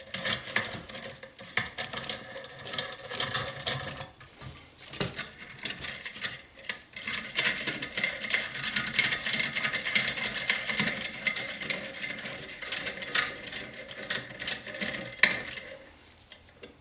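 Metal hand tools clicking, clinking and rattling against a small engine as a valve spring compressor is worked and adjusted on a Briggs & Stratton mower engine's valve. The clatter is irregular, busiest in the middle and easing off near the end.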